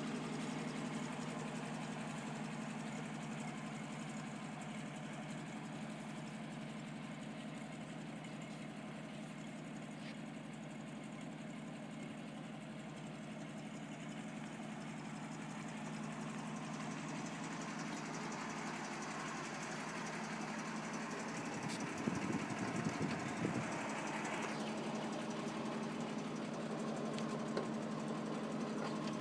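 1962 Toyota Land Cruiser FJ40's F-series straight-six petrol engine idling steadily. About 22 seconds in, a louder, uneven stretch lasting a second or so breaks the even hum.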